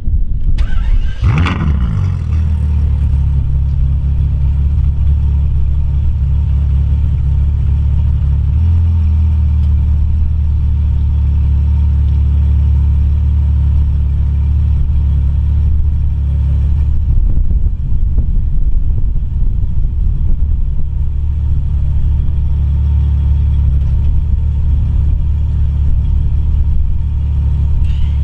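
Ferrari 812 Superfast's naturally aspirated V12 starting up: a sharp flare of revs about a second in that falls quickly, then a steady, loud idle.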